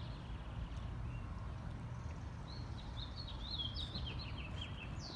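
A songbird chirping, a quick run of short high notes in the second half, over a steady low outdoor rumble.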